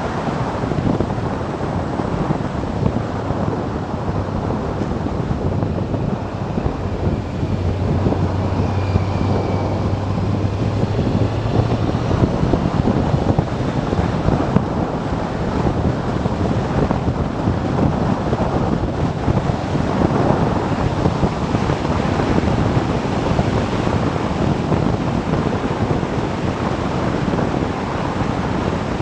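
Wind rushing over the microphone of a moving motorcycle, with the engine's low steady hum underneath, strongest from about seven to twelve seconds in.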